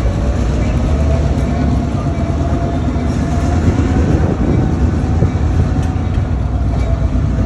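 Steady rumble of a passenger train, with a faint steady whine above it and a few light clicks.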